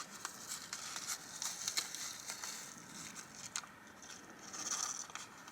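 Bacon bits being shaken into a pan of noodles: scattered light clicks and rustling, with a louder rustle a little before the end.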